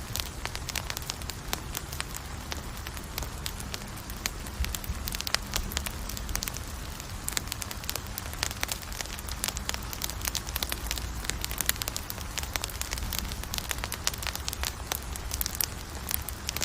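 Campfire burning with steady crackling and frequent sharp pops over a low rumble of the flames.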